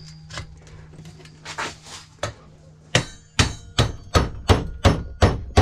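Hammer blows on the metal of a microwave magnetron being broken apart for scrap: a few lighter knocks, then about three seconds in a quick series of about eight hard strikes, a little over two a second, with a short metallic ring after some of them.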